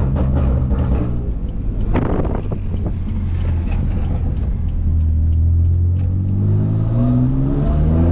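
Exhaust of a BMW F80 M3's S55 twin-turbo inline-six, running catless downpipes and an open valved axle-back, heard from inside the car while driving at low speed. It gets rougher and crackly for a moment about two seconds in, then the revs climb steadily over the last couple of seconds.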